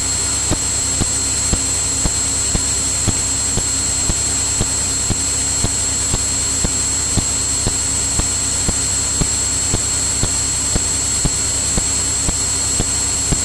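Steady drone of a Cirrus single-engine piston airplane in flight, heard through the cockpit audio feed, with a high steady whine and a faint regular tick about twice a second.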